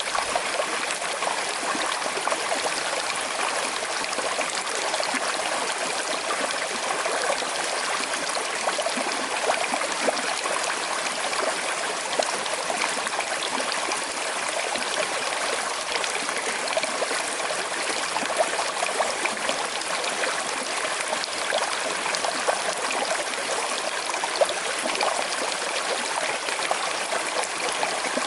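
Small river with a slight current, flowing steadily: a constant wash of running water with many small splashes and gurgles through it.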